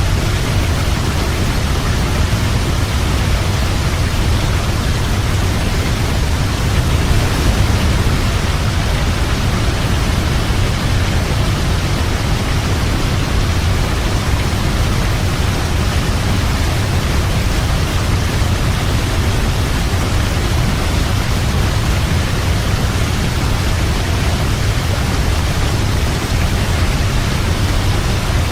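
Waterfall: a steady, loud rush of falling water, heaviest in the low rumble, with no change in its course.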